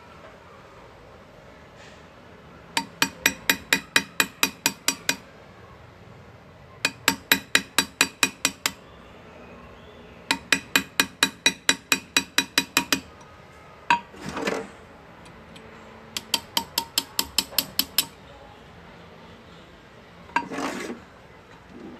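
Hand engraving on metal: a small hammer tapping a chisel in four quick runs of light, ringing strikes, about four or five a second, with short pauses between runs.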